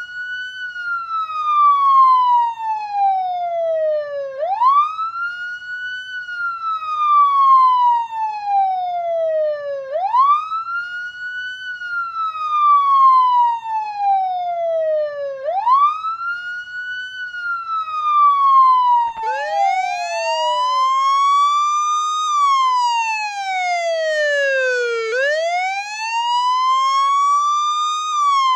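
Police car siren wailing: each cycle rises quickly and falls slowly, about every five and a half seconds. About two-thirds of the way through it crossfades into a wail that rises and falls evenly, about three seconds each way.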